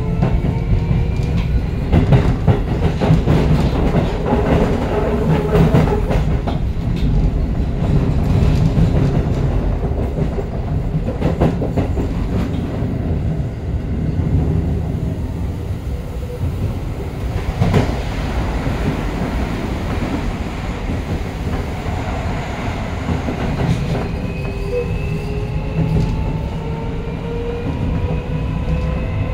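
Keio Line electric commuter train running at speed, heard from inside the car: a steady rolling rumble with the wheels clacking over rail joints. The traction motors' whine rises in pitch as the train picks up speed, fading out just after the start and coming back during the last five seconds or so.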